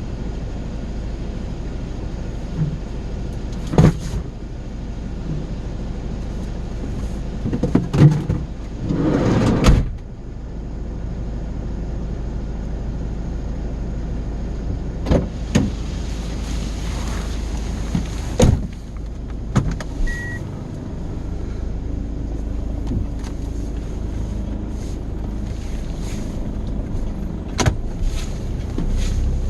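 Road and engine noise inside a moving car's cabin: a steady low rumble, broken by a few sharp knocks and clicks and a brief louder rush of noise about nine seconds in.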